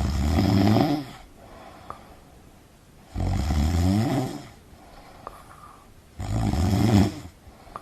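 Snoring: three long snores about three seconds apart, each lasting a second or more, with quieter gaps between.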